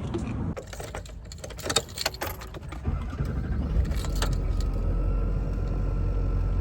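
A run of clicks and rattles, then a car running with a steady low rumble from about four seconds in.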